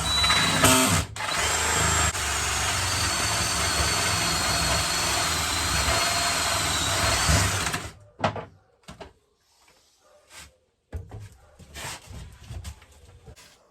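Power drill boring a hole, running steadily with a faint high whine for about eight seconds, then stopping. A few light knocks and clatters follow as the work is handled.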